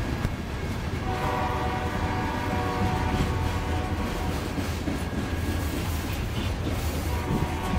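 Freight cars rolling past with a steady low rumble of wheels on rail. Over it, a distant locomotive horn sounds a steady chord for about three seconds starting a second in, and again near the end.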